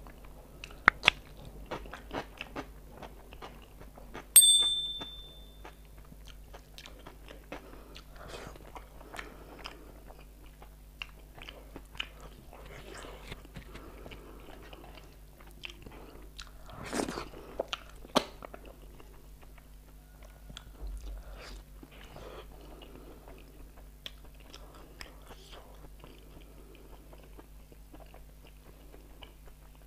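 Close-up chewing and wet mouth sounds of a person eating egg curry and rice by hand, with sharp clicks. About four seconds in, the metal plate rings once with a bright tone that fades over about a second and a half.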